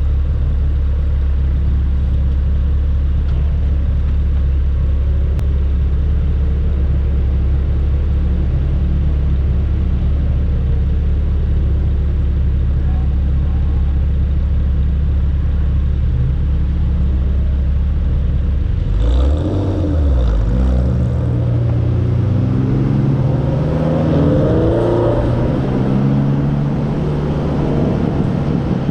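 Hyundai Elantra N's turbocharged 2.0-litre four-cylinder engine running under way on track, holding a steady note for most of the time, then rising and falling in pitch repeatedly through gear changes from about two-thirds of the way in.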